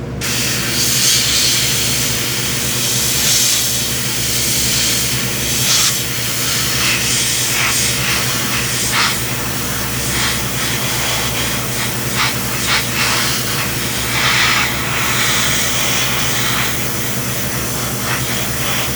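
Airbrush spraying paint: a steady hiss of air that starts abruptly and swells and eases as the trigger is worked, laying thin coats of a darker colour over pre-shading.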